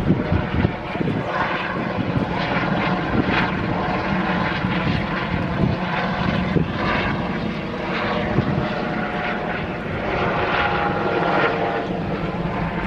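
A steady engine drone with a constant pitch.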